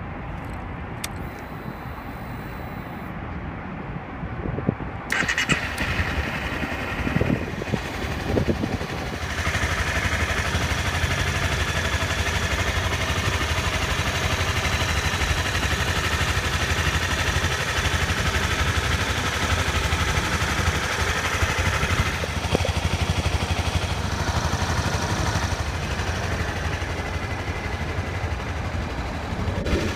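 Honda CRF250L's single-cylinder four-stroke engine running with about 150,000 km on it. It runs steadily, with a few sharp peaks in level between about five and nine seconds in, then grows louder for a stretch before settling back down about two-thirds of the way through.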